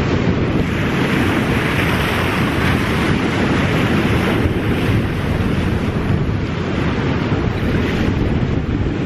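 Wind buffeting the microphone with a low rumble, over small waves breaking and washing up a sandy shore. The hiss of the wash swells about a second in and again around four seconds.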